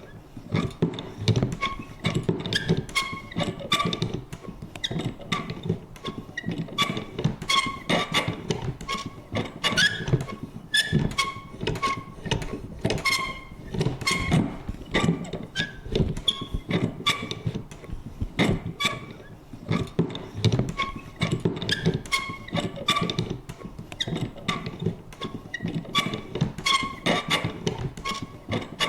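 Vintage paper punch worked over and over: irregular clicks and clunks, a few a second, many with a short, creaky squeak.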